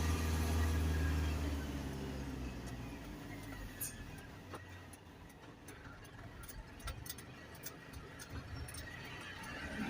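Isuzu garbage truck engine running with a low hum that eases off after about two seconds, followed by a scatter of light clicks.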